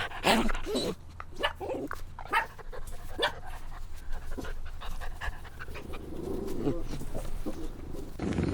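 A pet animal making a string of short calls, a few each second at first, giving way to a softer low murmur near the end.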